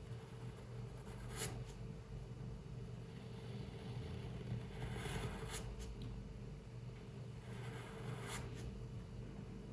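A pen or pencil scratching across paper in drawing strokes: short scratches about a second and a half in, around five seconds in and around eight seconds in, with softer rubbing between. A steady low hum runs underneath.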